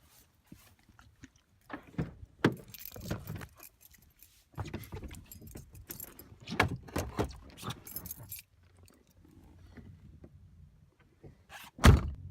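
Handling noise: irregular clinking, rattling and rustling, with a single sharp thump just before the end.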